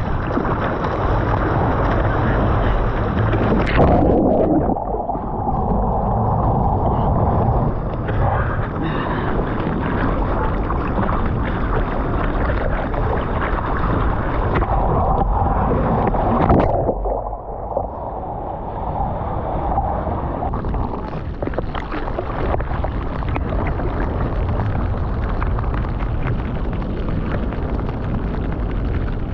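Ocean surf and wind rushing on the microphone, loud and rough. About four seconds in the sound turns muffled and dull, then clears again after about seventeen seconds.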